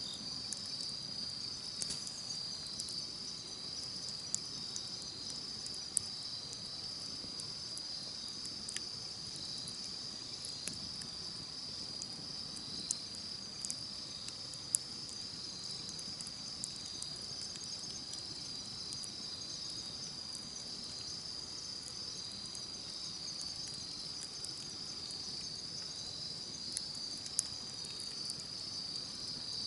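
Insects, crickets by the sound, chirping in a steady high-pitched chorus, with the scattered sharp crackles and pops of a wood campfire burning.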